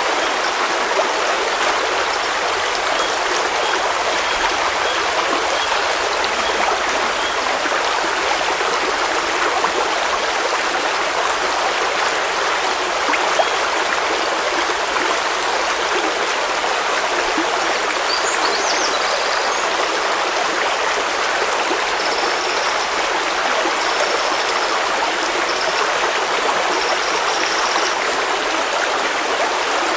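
River water flowing over rocks: a steady rush of water.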